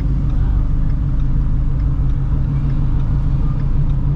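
Straight-piped 2016 Shelby GT350's 5.2-litre flat-plane-crank V8, with long-tube headers, running steadily at low revs with a deep, even rumble.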